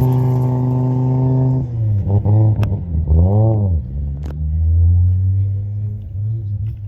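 Race car engine held at steady revs, then blipped a few times with the revs rising and falling, with two sharp pops from the exhaust around the middle, before settling to a low, steady running note.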